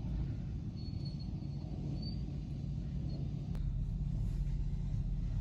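Steady low rumble of a car, with a single sharp click a little past halfway through.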